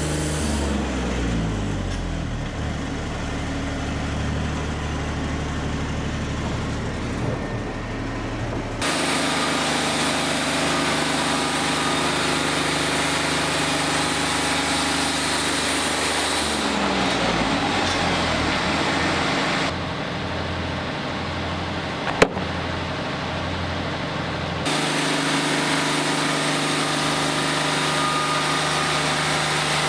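An engine running steadily, its pitch falling twice as it slows. Its sound shifts abruptly every several seconds, and there is a single sharp click a little past the twenty-second mark.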